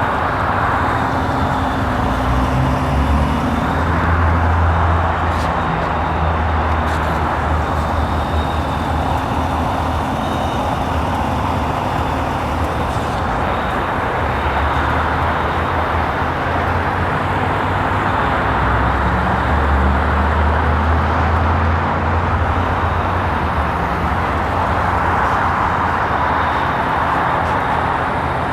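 The 2018 GMC Yukon Denali's 6.2-litre V8 idling steadily, a low hum under a constant rushing background noise.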